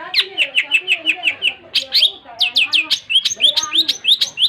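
Long-tailed shrike (cendet) singing energetically: a fast run of sharp chips at about seven a second, then a few falling notes, then a string of quick rising notes.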